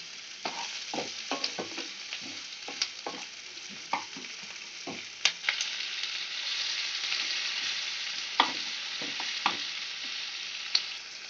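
Chopped onion, garlic and tomato sizzling in hot oil in a non-stick frying pan, stirred with a wooden spatula that knocks and scrapes against the pan. The sizzle grows louder about halfway through.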